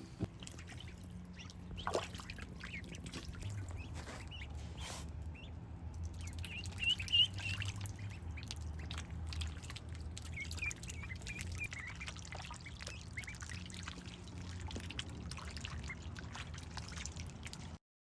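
Ducklings peeping in short high calls while paddling in a shallow tub, with light water splashing and dribbling over a low steady hum. The sound cuts off suddenly near the end.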